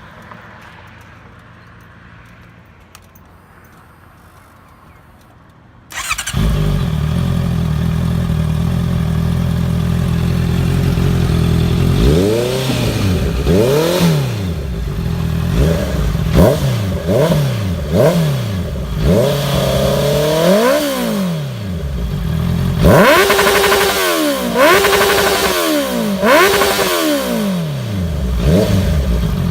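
Honda CBR motorcycle with a replica Akrapovic aftermarket exhaust starting up about six seconds in and idling, then revved repeatedly in quick blips, the pitch climbing and dropping back a dozen or so times.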